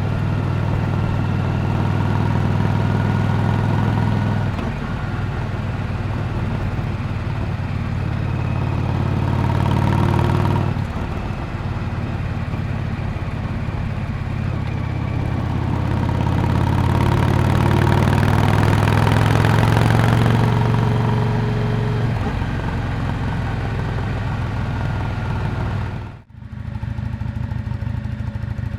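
Exhaust of a Yamaha Drag Star 400 Classic's air-cooled V-twin while riding, the note swelling twice under throttle and easing off in between. Near the end the sound drops out for a split second, then the engine runs on steadily.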